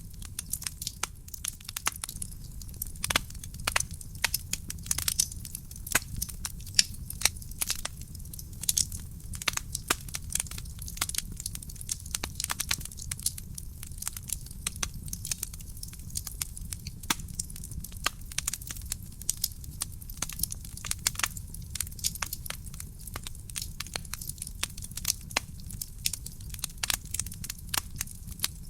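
Wood fire crackling in a fireplace: many sharp, irregular pops and snaps, several a second, over a steady low rumble of the burning fire.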